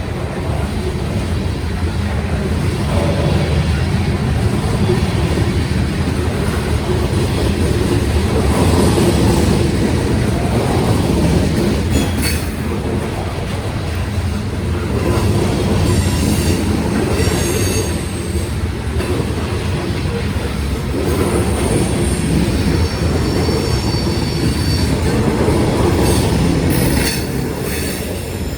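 Union Pacific grain train rolling past: a steady, loud rumble and clatter of wheels on rail, with high-pitched wheel squeal coming and going in the second half.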